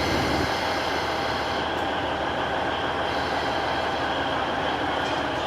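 Alishan Forest Railway train running: a steady rumble of wheels and carriage noise.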